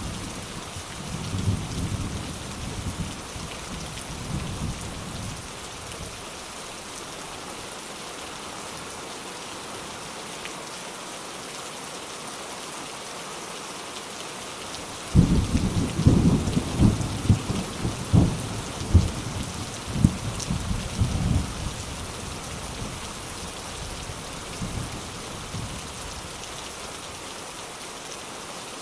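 Steady rain with thunder: a low rolling rumble in the first few seconds, then a sudden loud thunderclap about halfway through that rumbles on in waves for several seconds before dying away.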